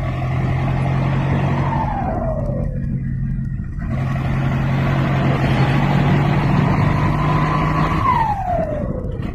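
Motorcycle engine with a short, unmuffled exhaust pipe, ridden under throttle. Twice, a little after two seconds and again near the end, the throttle closes and the engine note falls sharply in pitch.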